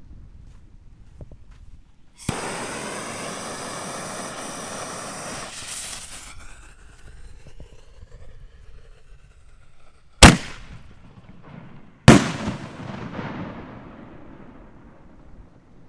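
Excalibur 4-inch canister shells firing. A sudden steady hiss lasts about four seconds, then two loud bangs come about two seconds apart, each trailing off in a rolling echo.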